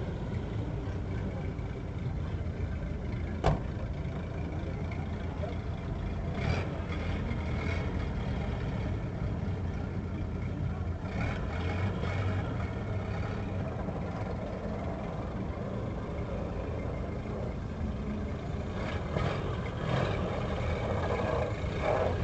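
A car engine idling steadily, heard from inside the cabin, with one sharp click about three and a half seconds in and faint voices outside now and then.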